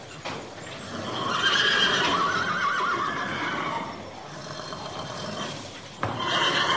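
Horse whinnying: a long whinny with a wavering pitch starts about a second in, and a second whinny begins sharply near the end.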